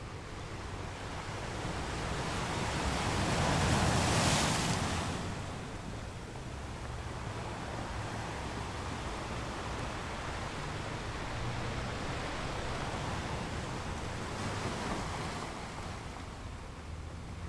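Ocean waves breaking on the shore: one wave swells and crashes about four seconds in, then washes out, with a smaller surge near the end.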